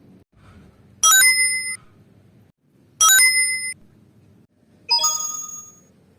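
Three short electronic chime sound effects about two seconds apart, each a cluster of steady bell-like tones; the third rings out longer and fades.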